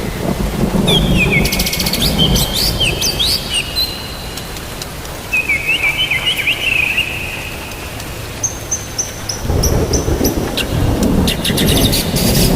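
Birds chirping in quick, high phrases over steady rain, then a low rumble of thunder swells about three-quarters of the way in.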